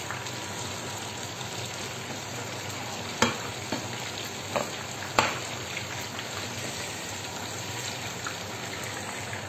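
Cubed aubergines frying in hot oil in a pan: a steady sizzle, with a few sharper ticks between about three and five seconds in.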